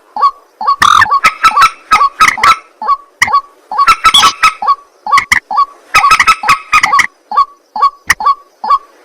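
White-breasted waterhens (ruak-ruak) calling: loud, harsh, croaking notes given in quick clusters, one group after another with short gaps between.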